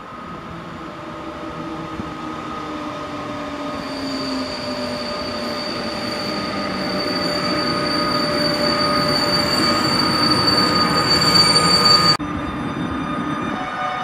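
PKP Intercity EU160 Griffin electric locomotive hauling a passenger train into the station, growing steadily louder as it approaches. It makes a whine that falls in pitch over the first few seconds, and a steady high-pitched squeal sets in about four seconds in. The sound drops off abruptly about twelve seconds in, and quieter train noise continues.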